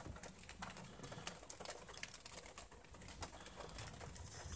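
Faint light rain ticking irregularly on the car, over a low rumble.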